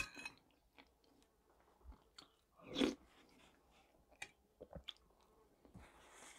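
Close-miked chewing and mouth sounds of a woman eating shchi (cabbage soup) from a spoon, quiet and intermittent, with one sharp click at the start, a louder mouth sound about three seconds in, and small clicks and smacks around it.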